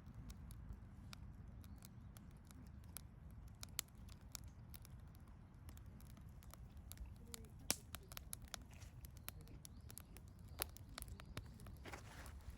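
Wood campfire crackling: scattered sharp pops and snaps over a low rumble, with one louder pop a little under eight seconds in.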